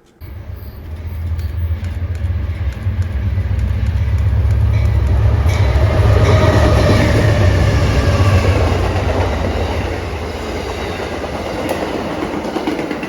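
Amtrak passenger train led by GE P42DC diesel locomotives passing at track speed. Heavy diesel and wheel rumble with clickety-clack builds to its loudest about six to eight seconds in, with a falling pitch as it goes by, then eases off.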